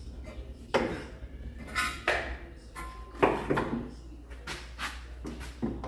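Metal tools and car parts clinking and knocking as they are handled, a string of separate knocks, some with a short metallic ring.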